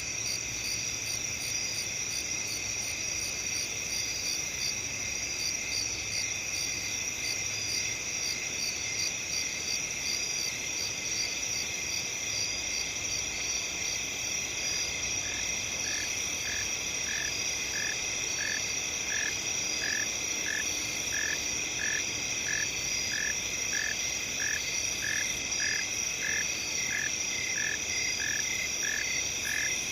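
Night chorus of crickets and other field insects: several high, steady trills layered together with fast pulsing chirps. About halfway through, a lower call joins, repeating about twice a second.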